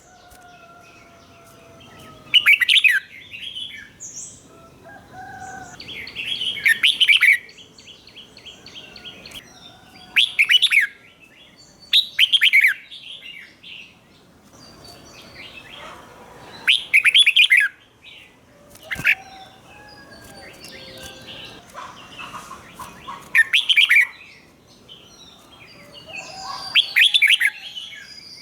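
Red-whiskered bulbuls singing: about eight short, loud, warbled phrases a few seconds apart, with fainter chirps and calls between them.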